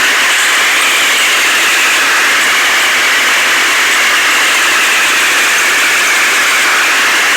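Heavy machinery engine running steadily, heard as a loud, even hissing drone with a slight slow waver and no distinct beats.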